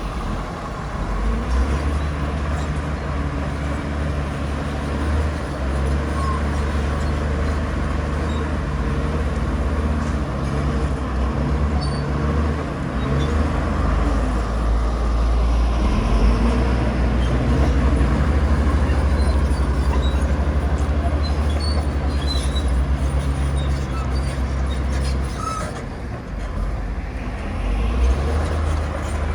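Heavy diesel earthmoving machinery running: a deep, steady engine drone that grows louder in the middle and dips briefly near the end before picking up again.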